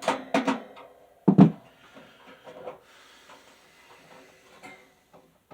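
Parts of a box fan being handled during disassembly: a few quick knocks and clatters, a louder thump about a second and a half in, then light rubbing and small clicks.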